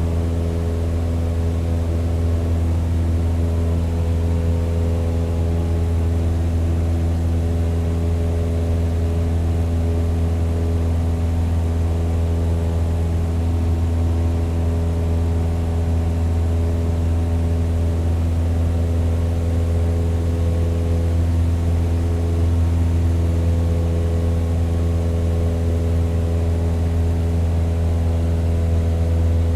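Propeller aircraft engine running steadily, a deep drone whose pitch holds constant throughout.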